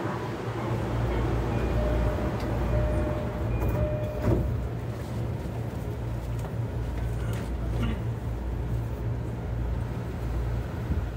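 JR East E233 series 0 electric train running, heard from inside the car: a steady low rumble with a faint whine, and a single knock about four seconds in.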